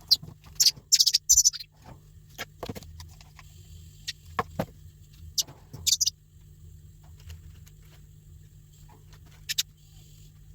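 Thrush chick giving short, high-pitched begging squeaks as it is hand-fed, a quick run of them in the first second and a half and a few more scattered later, with some soft knocks between.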